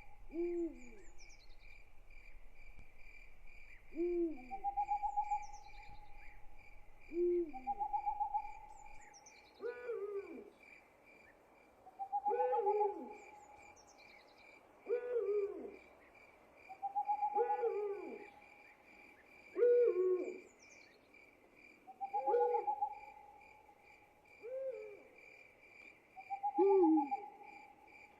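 Night ambience: an owl hooting again and again, a call every two to three seconds, over a steady pulsing chirp of crickets. Short falling calls come in between the hoots.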